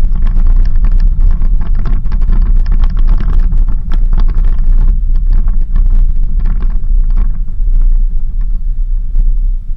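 4x4 vehicle driving on a rough dirt road: a loud, constant low rumble with many rattles and knocks from the bumpy surface.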